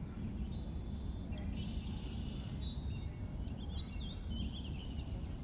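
Small birds chirping and twittering in quick runs of short high notes, over a steady low background rumble.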